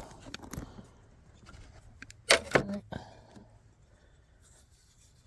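A rubber fuel return line is pulled off its fitting, giving one sharp snap about two seconds in amid faint handling noise, followed at once by a brief grunt.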